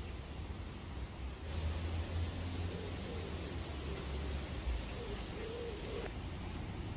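Outdoor ambience: a steady hiss and low rumble, with a few short, high bird chirps scattered through it.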